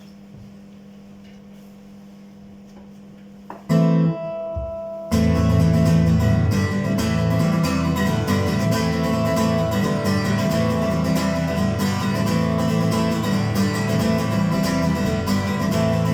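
Acoustic guitar: after a few seconds of low hum, one chord is struck almost four seconds in and left ringing, then steady strumming starts, the instrumental intro of the song.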